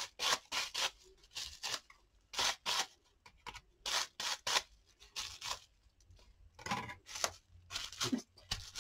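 Bubble wrap loaded with acrylic paint being pressed and rubbed over a paper journal page. It makes a string of short crinkling, rubbing strokes, about two or three a second, with short pauses between runs.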